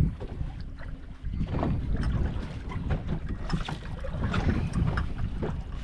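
Wind buffeting the microphone on a small fishing boat, a heavy low rumble, with water slapping and small knocks against the hull.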